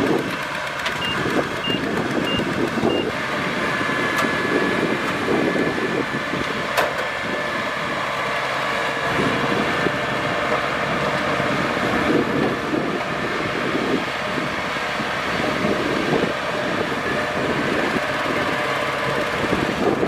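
Kubota DC-70 Plus rice combine harvester running steadily under load. Four short high beeps sound in the first three seconds.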